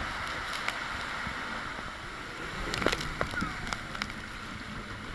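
Steady rush of water, with a few sharp knocks about three seconds in, from a raft riding a water-coaster flume.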